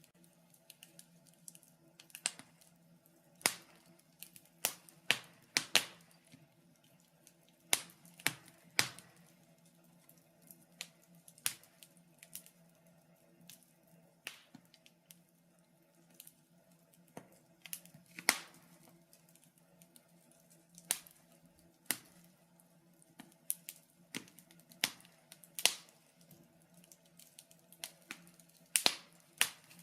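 Wood fire crackling: irregular sharp pops and snaps, sometimes two or three close together, over a faint steady hum.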